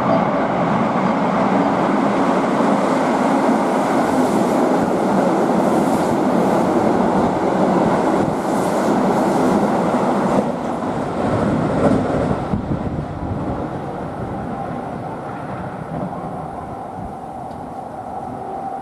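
Keihan Main Line electric train running along the platform track, loud for about twelve seconds and then fading as it moves away.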